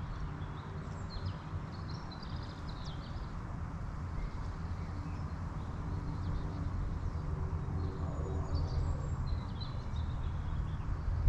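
Small songbirds chirping in short high phrases, first in the opening seconds and again about eight seconds in, over a steady low rumble.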